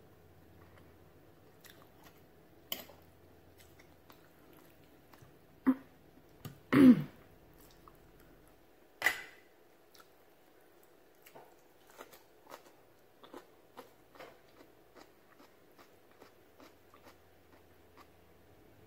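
A person eating by hand, close to the microphone: soft chewing and biting with small wet mouth clicks. A few louder mouth or throat noises come midway, the loudest about seven seconds in.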